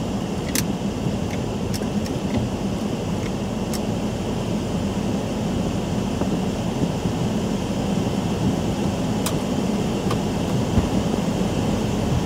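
Heavy rain on a car, heard from inside the cabin: a steady low rushing rumble, with occasional sharp taps of single drops striking the glass and roof.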